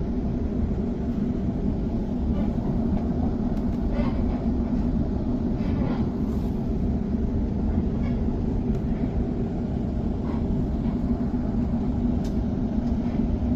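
Electric suburban train running, heard from inside the carriage: a steady low rumble of wheels and motors on the rails, with a few faint clicks.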